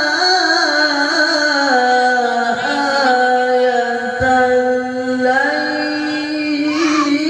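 A Qur'an reciter's voice holds a long, ornamented melodic note in mujawwad-style tilawah. It steps down in pitch over the first few seconds and climbs again past the middle, with only a brief catch about four seconds in.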